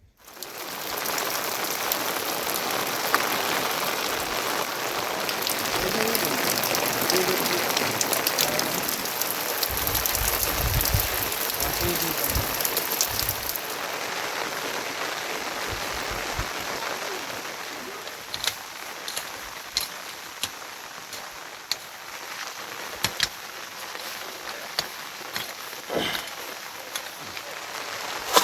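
Steady heavy rain falling, easing after about halfway into lighter rain with scattered sharp drops.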